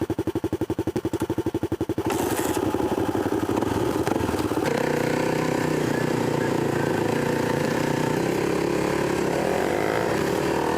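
Dirt bike engine idling with an even, loping beat, then pulled away about two seconds in and running steadily under way.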